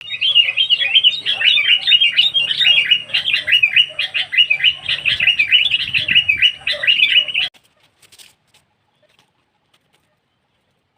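Sooty-headed bulbul (kutilang) calling in a fast, unbroken chatter of rising and falling notes, the excited calling of a decoy bird used to lure wild bulbuls. The calls cut off abruptly about three-quarters of the way through, leaving a few faint clicks.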